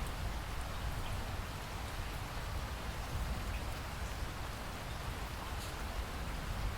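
Steady rain: an even hiss with faint scattered drop ticks over a low rumble.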